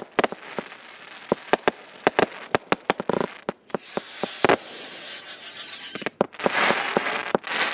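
Consumer firework cakes from a Brothers bomb set firing: a rapid, irregular string of sharp bangs. A whistle is held for about two and a half seconds in the middle, and a dense cluster of bangs and crackle comes near the end.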